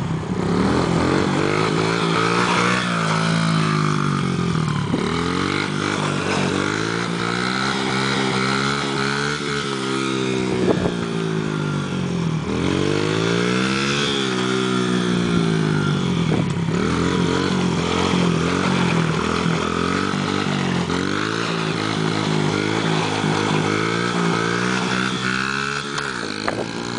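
Dirt bike engine revving up and down as the bike circles close by, its pitch rising and falling every few seconds.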